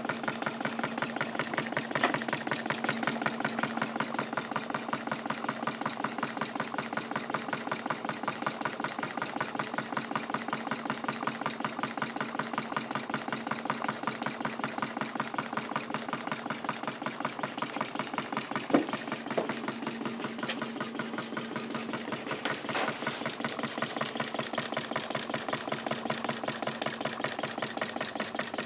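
Homemade live-steam model engine with a 1-inch bore, fed from a PM Research horizontal boiler, running steadily with a rapid, even beat. A single sharp click cuts in a little past two-thirds of the way through.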